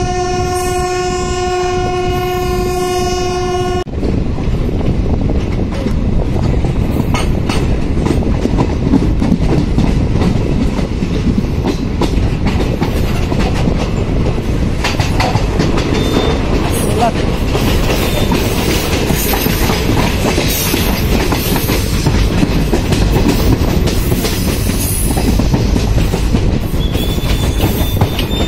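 Train horn sounding one long steady blast that cuts off about four seconds in, followed by the train running with a rattling clatter of wheels over the rails, growing a little louder as it gathers speed.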